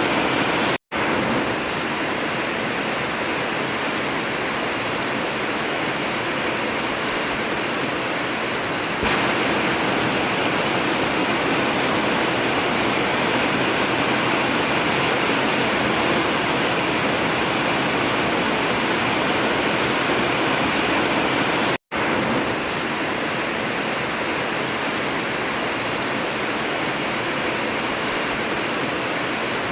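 Heavy rain drumming steadily on a tin (zinc sheet) roof, an even hiss with no thunder. It cuts out for an instant twice, about a second in and about two-thirds of the way through, and gets slightly louder about a third of the way in.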